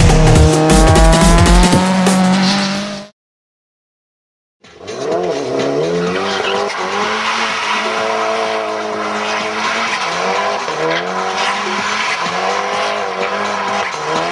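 Music with a heavy drum beat for about the first three seconds, cut off into a second and a half of silence. Then a Mitsubishi saloon's engine revving up and down over hissing tyre noise as the car slides on the wet track.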